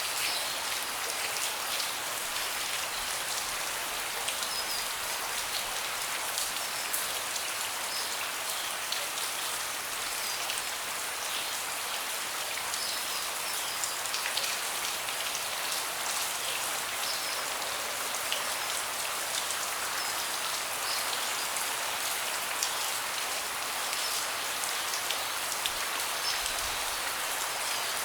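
Steady rain falling on a deck, a constant hiss with many individual drops ticking sharply.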